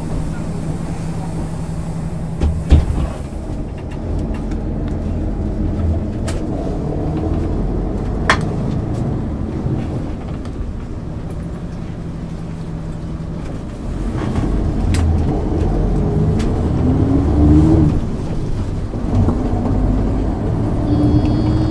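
1999 MAN ÜL 353 diesel bus heard from on board: the engine runs steadily, with a sharp knock a few seconds in. Past halfway it pulls away, the engine pitch rising, dropping at a gear change and rising again near the end.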